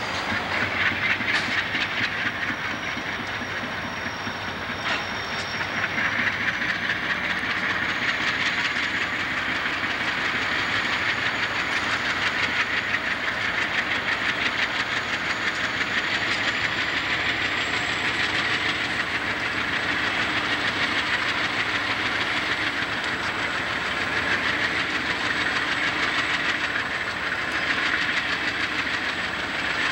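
Three Union Pacific diesel locomotives pulling a freight train slowly past, their engines running, with steady, evenly spaced clicking of wheels over the rail joints.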